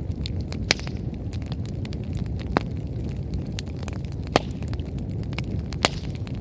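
Wood fire burning strongly: a steady low rumble of flames with frequent small crackles and four louder sharp pops from the burning firewood.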